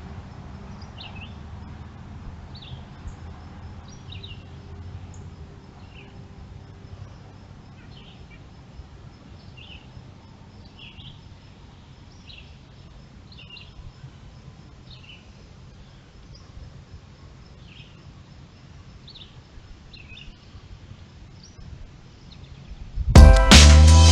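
A small bird chirping over and over, short high calls about once a second, over a low steady background rumble. Music starts loudly near the end.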